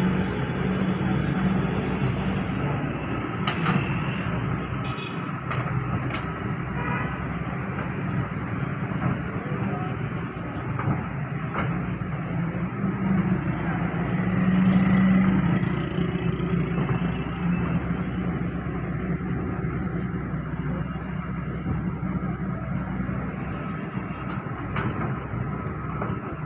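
Heavy diesel machinery running steadily, with a deep engine hum that swells louder about halfway through, and a few sharp metallic clanks.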